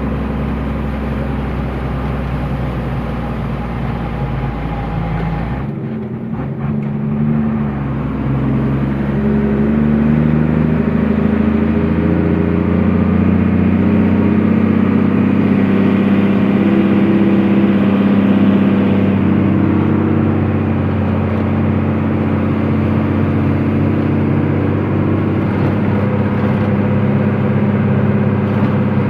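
Truck engine running on the move. About six seconds in, the low drone drops out and the engine note then rises and holds higher as it picks up speed.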